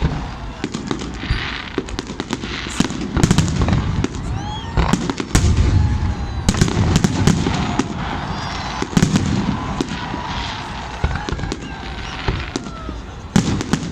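Fireworks going off in a rapid run of sharp cracks and deep booms, with several short whistles bending in pitch between them. The booms are heaviest about five to six seconds in.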